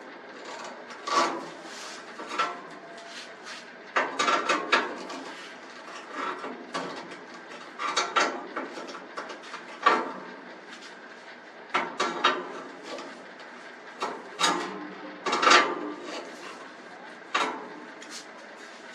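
Irregular metal clinks, clanks and knocks of garage door roller hardware being handled and pushed back into place, in small clusters with short gaps between them.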